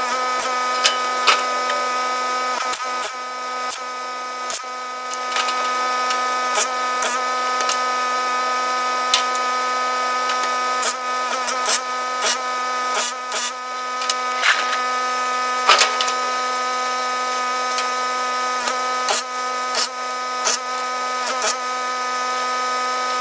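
Welding arc on aluminum plate: a steady electrical buzz with irregular sharp crackles and pops as a weld bead is laid.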